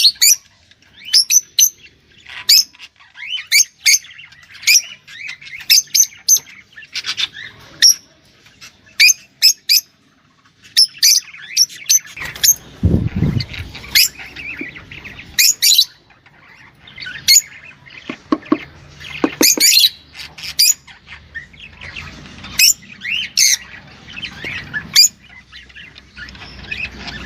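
Small cage songbird singing in phrases of sharp, high chirps and quick trills, with short pauses between phrases. A brief low rumble comes about halfway through.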